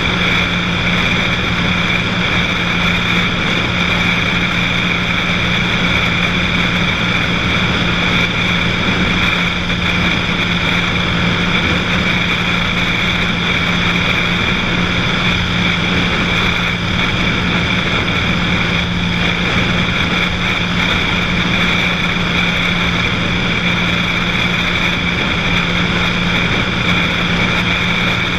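Cessna 182's single piston engine and propeller running steadily at a constant power setting in level flight, an even drone with no change in pitch.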